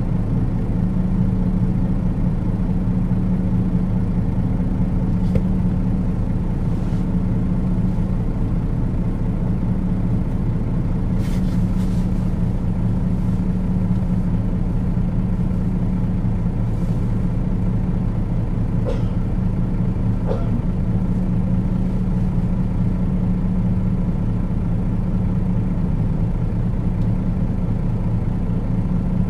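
Diesel engine of a Nissan Diesel UA city bus heard from inside the cabin, running steadily at one even pitch with no revving. A few faint clicks and rattles come through along the way.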